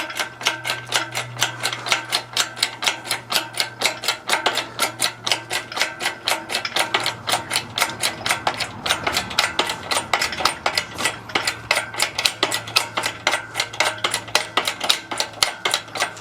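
Engine crane being raised by hand: its lifting mechanism gives a fast, even train of clicks, about five a second, as it slowly lifts.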